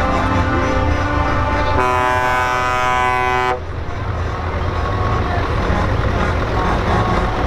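Truck air horns sounding long steady notes that shift in pitch, cutting off suddenly about three and a half seconds in, over the low rumble of truck engines, which carries on after.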